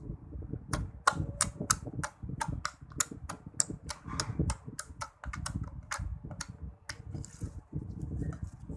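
Fingers poking and pressing slime, giving a rapid run of sharp clicking pops at about four a second that thin out near the end.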